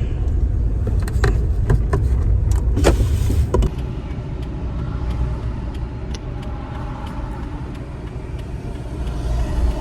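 Car moving, heard from inside the cabin: a steady low engine and road rumble, with a few sharp clicks in the first few seconds.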